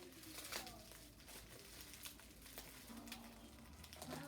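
Faint crinkling and rustling of packaging as a wrapped crystal is handled and unwrapped, with a few small clicks.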